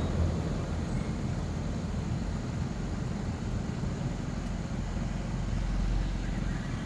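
Steady low rumble with a faint hiss over it, with no distinct event.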